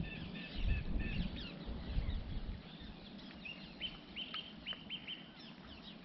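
Wild songbirds chirping and singing, several calls overlapping, with a quick run of about five sharp repeated notes in the middle. A few low thumps sound under them.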